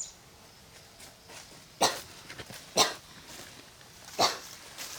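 A dog barking three times, short sharp barks about a second apart.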